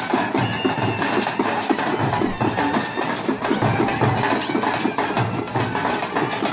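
Karnataka folk drums, the big dollu and the tamate frame drum, beating a fast, steady rhythm for a Veeragase dance.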